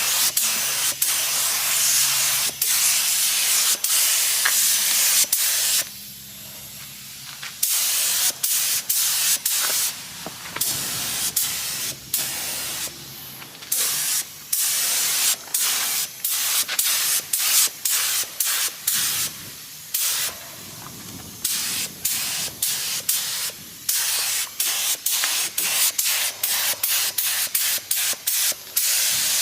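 Harbor Freight Black Widow air spray gun spraying paint in a hiss: one steady spray for about the first six seconds, then many short trigger-pull bursts, often several a second, with brief gaps between them.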